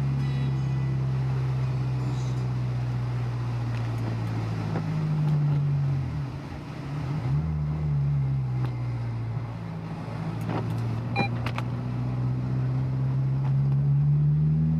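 Honda S2000's four-cylinder engine heard from inside the car, pulling at a steady cruise with its note slowly climbing. The note drops and picks up again about six to seven seconds in, as at a gear change, then rises again toward the end.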